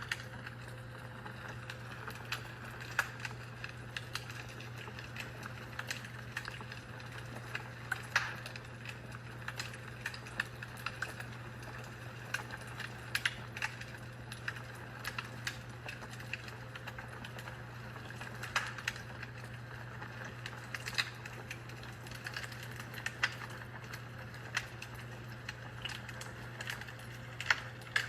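Fireplace crackling: irregular sharp pops and snaps, several a second at times, over a steady low hum.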